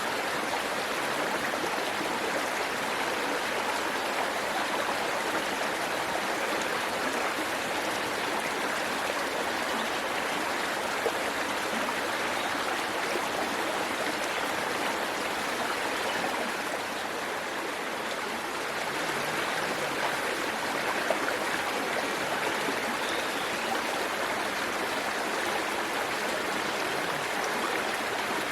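Waterfall's water rushing and splashing in a steady, dense hiss, easing slightly about seventeen seconds in.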